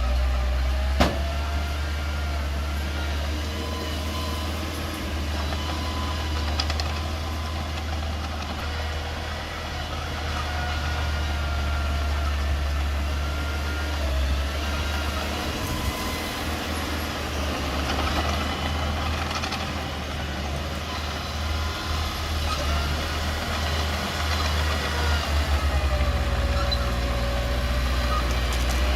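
Mini bulldozer's diesel engine running steadily under work, with a faint wavering whine rising and falling above the engine hum. A single sharp knock about a second in.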